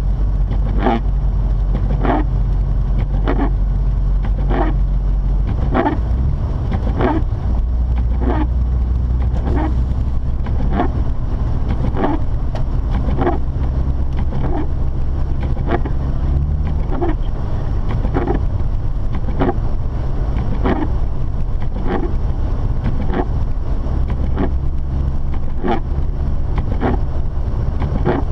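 Inside a moving Mazda RX-8: a steady low drone of the rotary engine and tyres, shifting in level about six seconds in and again near seventeen seconds. Over it, windshield wipers sweep across the glass about once a second.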